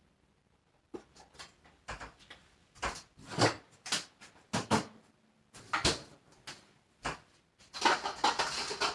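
Kitchen handling sounds: a series of light knocks and clunks as ingredient containers and a mixing bowl are picked up and set down on a table, coming closer together near the end.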